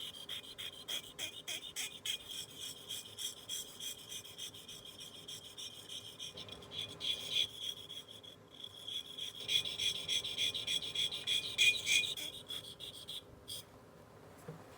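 Steel blade of a dental curette drawn back and forth against a water-wetted sharpening stone: a quick rhythmic rasping, about three strokes a second, that stops about a second before the end.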